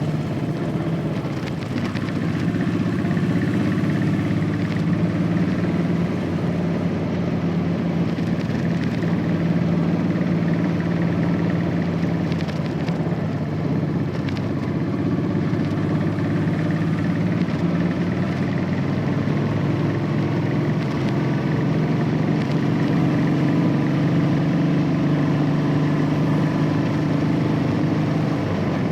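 Royal Enfield Classic 500's single-cylinder engine running through its stock exhaust while riding, steady with small rises and falls in engine speed.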